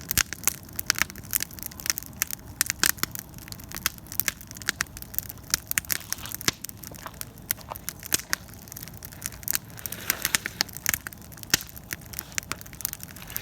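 Campfire crackling: burning wood snapping and popping in quick, irregular clicks, several a second.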